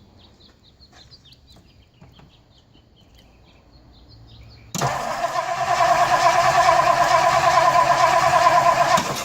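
A 1960 Ford Thunderbird's V8 cranking and starting, beginning abruptly about five seconds in and running loudly and steadily for some four seconds before cutting off suddenly.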